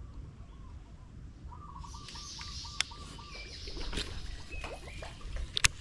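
Birds calling: a quick run of repeated short notes about two seconds in, then a few brief chirps, over a faint hiss. A few sharp clicks, the loudest a pair near the end.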